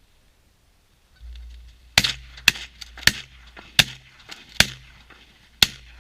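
A volley of shotgun fire from several waterfowl hunters shooting at geese over decoys. About six loud, sharp shots come unevenly over some four seconds, starting about two seconds in, with a few fainter shots between them.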